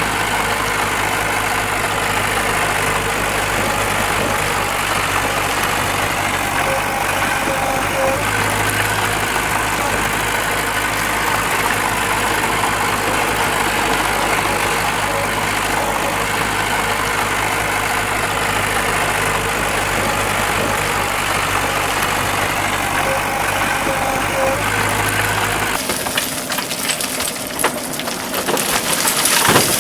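Diesel engine of a heavy earthmoving machine (dump truck or bulldozer) running steadily at idle. About 26 seconds in, the engine's low hum drops away and a rougher crackling, rattling noise takes over.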